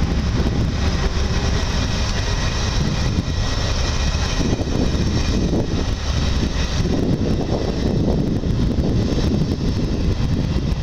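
Passenger coaches of a steam-hauled train rolling past close by: a steady rumble of wheels on the rails.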